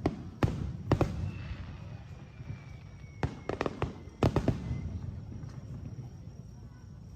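Aerial fireworks shells bursting: several sharp booms, two near the start and a quick cluster about three to four and a half seconds in, each trailing off in a low rumbling echo.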